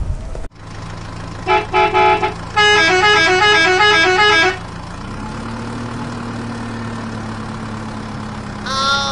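Toy dump truck's electronic sound effects: three short horn beeps, then a quick stepping electronic jingle for about two seconds. From about five seconds in a steady low drone runs as the truck moves, with another short pitched toy sound near the end.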